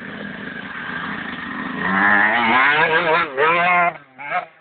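Enduro motorcycle engine revving, getting louder about two seconds in, its pitch rising and falling with the throttle, then breaking into short revs near the end.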